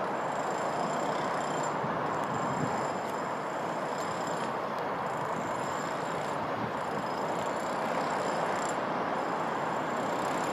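Class 158 Express Sprinter diesel multiple unit approaching, a steady rumble of engine and wheels on rail with faint high-pitched tones above it, growing slightly louder near the end.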